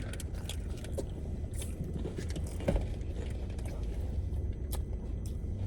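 Steady low rumble of a car's cabin on the move, with scattered small clicks and noisy open-mouthed chewing ("smacking").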